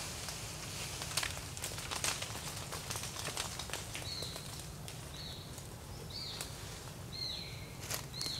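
A bird calling over and over, about once a second from around the middle onward, each call a short high note that drops in pitch. Earlier there are a few sharp clicks and rustles over a steady low outdoor hum.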